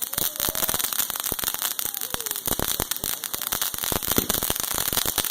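Consumer firework crackling: a dense, rapid run of small pops and snaps.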